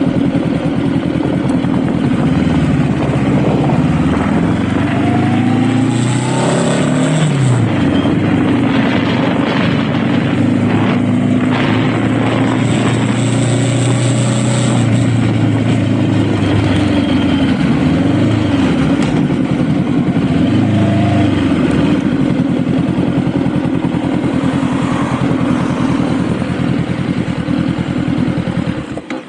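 Honda Rebel motorcycle engine under way, with a steady rush of wind noise. Its pitch climbs and drops several times as the bike speeds up and slows down.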